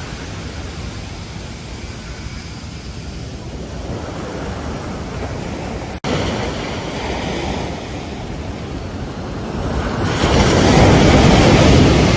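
Ocean surf: waves breaking and washing up a beach, the rush rising and falling, with a louder wave breaking about ten seconds in.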